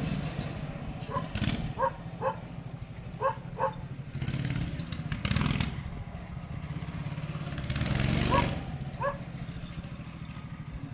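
Homemade motorcycle engine running at idle with a steady low putter. Several short yaps, like a dog barking, come over it.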